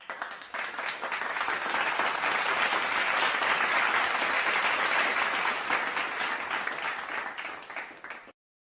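A crowd applauding with dense clapping. It swells up over the first second, holds steady, then fades out and stops shortly before the end.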